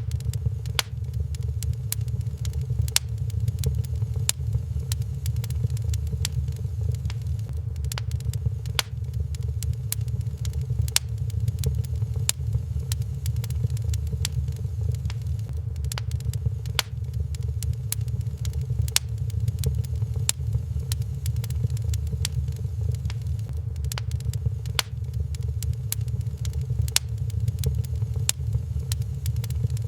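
Wood fire crackling in a fireplace, with many scattered sharp pops and snaps at irregular intervals over a steady low rumble.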